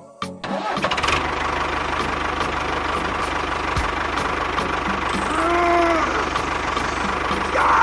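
Small engine running steadily, a fast even low pulsing under a noisy hum. About five and a half seconds in, a brief pitched tone rises and falls over it, and a louder noisy burst comes near the end.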